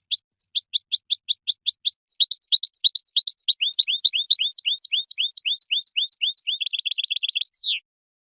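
European goldfinch singing. It starts with a quick series of repeated slurred notes, then runs into faster, busier twittering, and ends in a rapid trill and one falling note.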